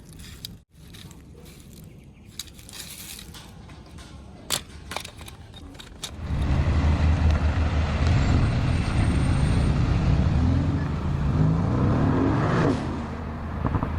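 A few sharp clicks, then about six seconds in a vehicle engine starts running loudly with a low, steady rumble that eases off near the end.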